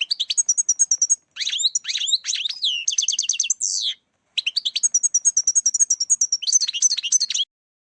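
European goldfinch song: fast, liquid twittering and trills in quick runs with brief pauses. It is a recorded lure song for catching goldfinches. The song cuts off abruptly about seven and a half seconds in.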